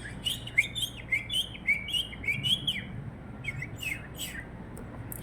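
Parrot chirping: a quick run of short, sharp calls that slide up and down, about three a second, thinning out after about three seconds.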